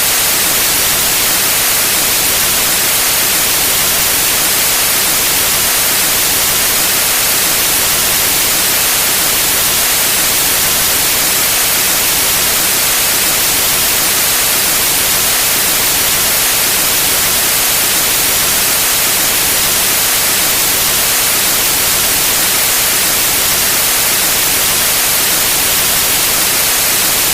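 Steady, unchanging white noise: an even hiss, brightest in the high end.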